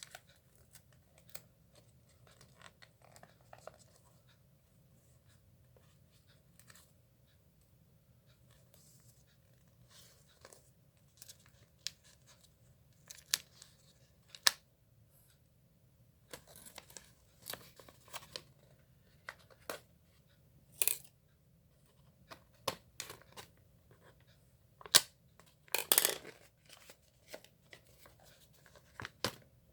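Parcel packaging being handled and opened by hand: scattered clicks, taps and rustles, with a longer tearing rasp near the end.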